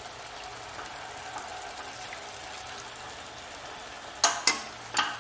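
Onion-tomato masala sizzling steadily in hot oil in a kadai. Three sharp knocks near the end.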